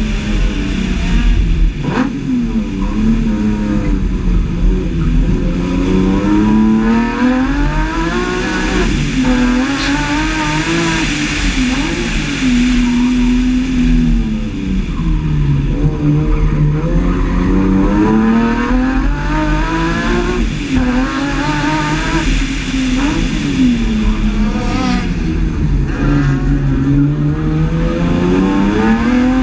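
BMW E30's S50B32 3.2-litre straight-six, heard from on board, accelerating hard and lifting off again and again, its pitch rising and falling every few seconds with brief breaks between pulls.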